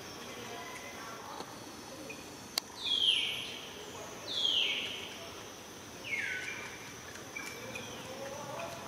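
A bird gives three harsh calls, each falling in pitch and lasting about half a second, over a steady high drone of insects. A single sharp click comes just before the first call.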